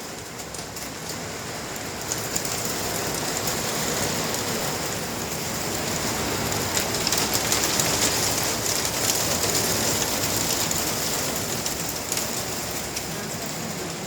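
Rain and hailstones falling together: a dense, steady patter of many small impacts, growing heavier toward the middle and easing slightly near the end.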